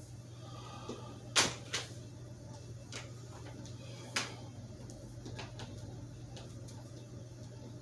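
A few sharp clicks and knocks, the loudest about a second and a half in, over a faint steady low hum.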